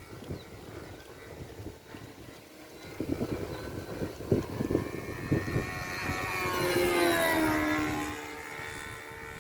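OS .46 two-stroke glow engine of a radio-controlled model airplane in flight. It grows louder and its pitch sweeps down as the plane passes, about seven seconds in, then settles to a steadier, fainter drone. Low thumps on the microphone come a few seconds before the pass.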